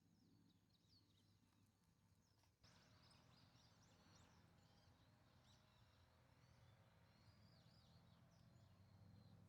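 Near silence with faint, scattered birds chirping and a low background hum.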